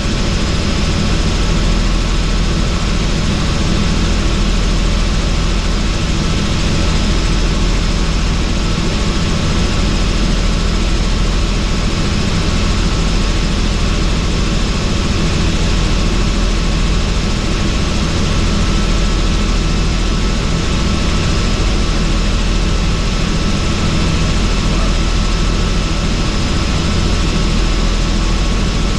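Helicopter in flight, heard from inside the cabin with the doors off: a steady, loud drone of rotor and engine under a rush of air, with a faint steady high whine.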